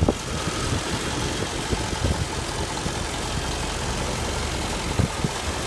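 Truck engine idling steadily and smoothly.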